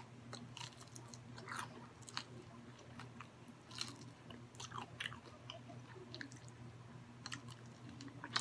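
A person chewing fried chicken with the mouth close to the microphone: soft, wet chewing with scattered small crunches of breading, over a faint steady low hum.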